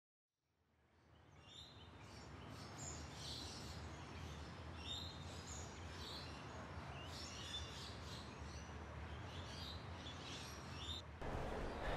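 Songbirds chirping in short repeated phrases over a faint low hum, fading in after about a second and a half.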